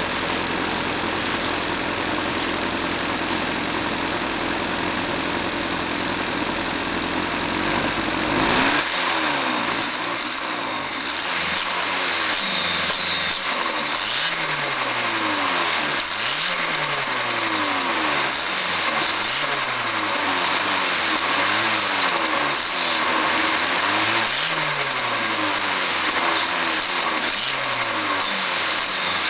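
Nissan KA24DET turbocharged 2.4-litre four-cylinder running with its ignition timing freshly set: a steady idle at first, then from about eight seconds in the throttle is blipped over and over, the revs rising and falling every couple of seconds.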